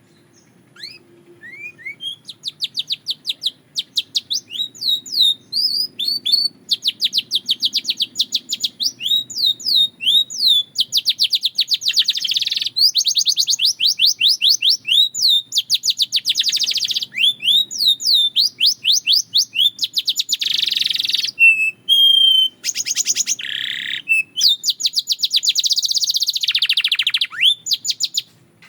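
Canary singing a long, continuous song made of fast trilled phrases, each a rapid run of repeated high notes, with a few clear whistled notes and short pauses between phrases.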